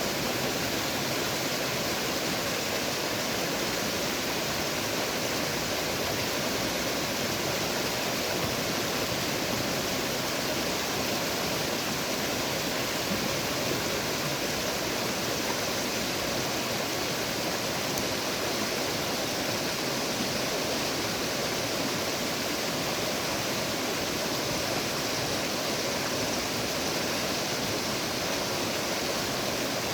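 Steady rushing of flowing river water, an even unbroken wash of noise.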